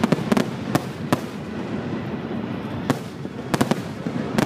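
Aerial firework shells bursting: a quick run of sharp bangs in the first second, then more from about three seconds in, including a close pair, over a steady crackle.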